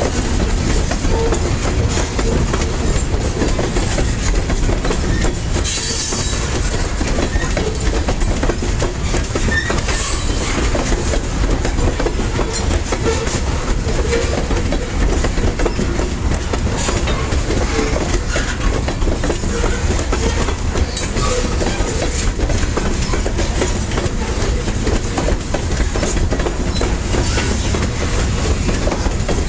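Cars of a corn-hauling freight train rolling past at close range, with a steady rumble and clickety-clack of wheels over the rail joints and occasional faint wheel squeal.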